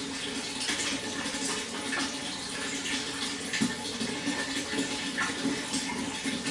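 Water running and splashing steadily, with many small splashes and gurgles.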